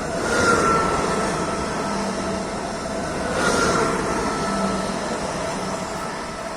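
A train passing close by, its rolling noise swelling twice, about three seconds apart. Each swell carries a thin high tone that falls slightly in pitch.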